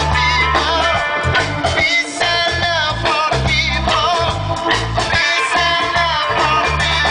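Live reggae band playing, with a strong, rhythmic bass line under guitar.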